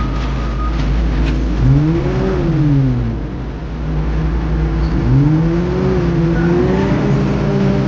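Heavy construction machinery's diesel engine over a steady low rumble. It revs up and straight back down about two seconds in, then revs up again about five seconds in and holds at the higher speed.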